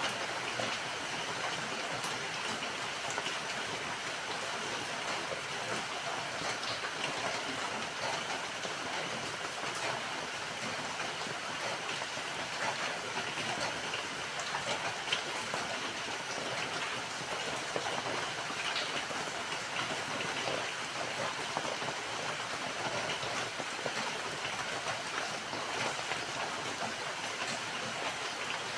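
Steady rain falling, an even hiss with scattered drop ticks and no pauses.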